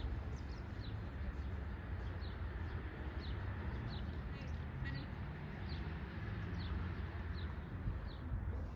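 A small bird repeating a short, high, down-slurred call note, a little more than once a second, over the steady rush of a stream.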